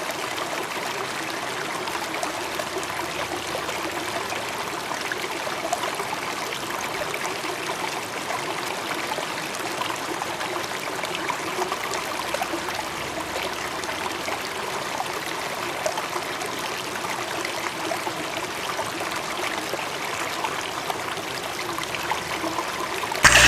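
A small stream running with a steady trickling rush. At the very end a much louder sound cuts in abruptly.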